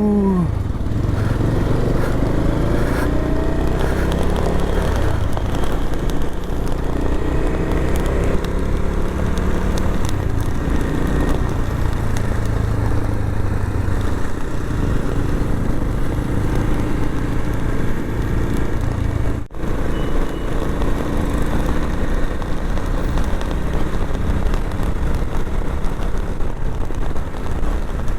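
Motorcycle engine pulling away, its pitch rising through the gears over the first few seconds, then running steadily at cruising speed with road and wind noise. The sound breaks off for a split second about two-thirds of the way through.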